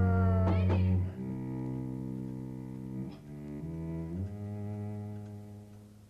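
Background drama score of low bowed strings playing slow, sustained notes that fade out near the end; a higher held note over a loud bass tone stops about a second in.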